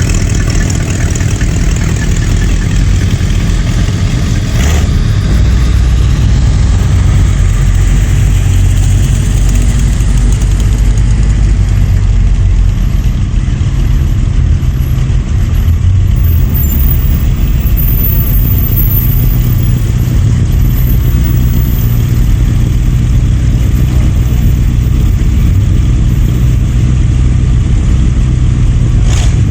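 Car engines running at idle and low speed with a steady, loud, low rumble, as cars move slowly past in a parade.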